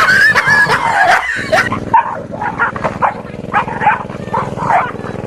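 Dog barking in a rapid string of short, sharp barks, about three a second, the alarm barking of a dog facing a fake tiger.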